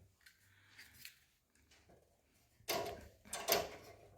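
Quiet room tone, then about two and a half seconds in a short spell of rustling and light knocks, loudest a second later.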